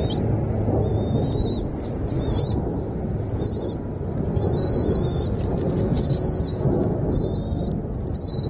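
Repeated short, high-pitched bird calls, about one a second, over a steady low rumble.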